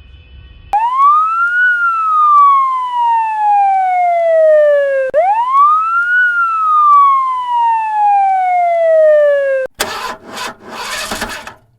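Police car siren wailing: two long cycles, each rising quickly then falling slowly in pitch, before cutting off suddenly. A couple of seconds of rushing noise in short broken bursts follow.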